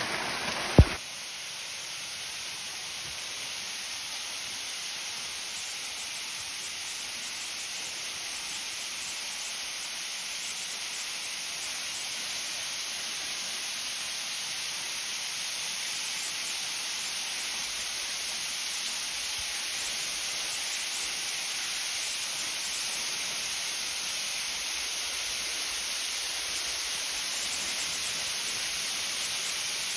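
A sharp click about a second in, then a steady, even hiss of rushing, spraying water, such as a waterfall.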